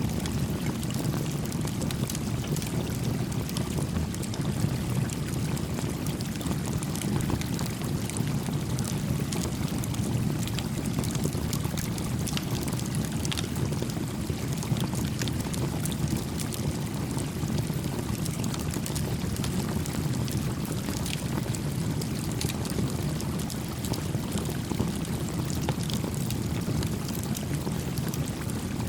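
A small campfire crackling with scattered sharp pops over the steady rush of a gently flowing stream.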